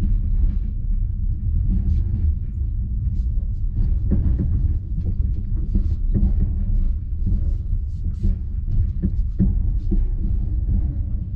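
Low rumble of a passenger train car rolling over the track, heard from inside the car at the window, with frequent irregular clicks and knocks from the running gear and car body.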